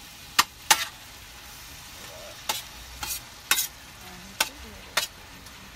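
Food sizzling steadily on a propane gas cooker, with a metal utensil striking and scraping the cooking surface in about seven sharp clicks.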